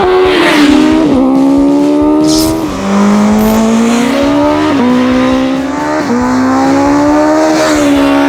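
BMW M 1000 R inline-four engine through an Akrapovic exhaust, pulling hard: its pitch climbs slowly, then drops sharply about half a dozen times as it shifts up through the gears.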